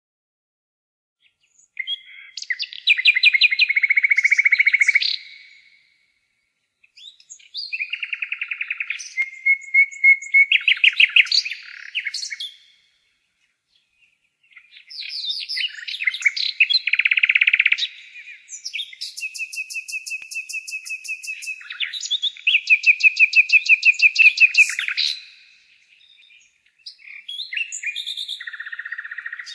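Nightingale singing: four phrases of rapid repeated notes and trills, separated by pauses of a second or two, the third phrase running about ten seconds.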